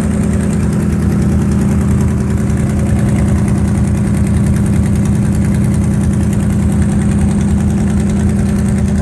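Chrysler Industrial 318 V8 of a Cockshutt 555 combine idling steadily through its flex-pipe exhaust, warming up after a cold start.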